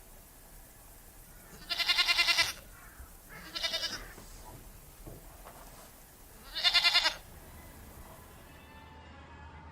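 Goat bleating three times, each call a quavering bleat lasting about half a second to a second.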